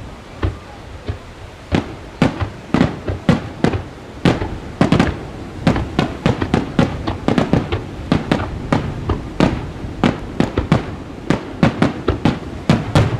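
Aerial fireworks shells bursting in a dense barrage of sharp bangs, each trailing a rumbling echo. A few spaced bangs come first, and about two seconds in they quicken to several a second.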